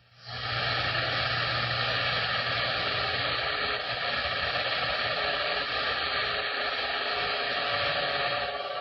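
CB radio receiver putting out a steady static hiss on the 11-metre band between transmissions. It starts right after a brief dropout and falls away near the end.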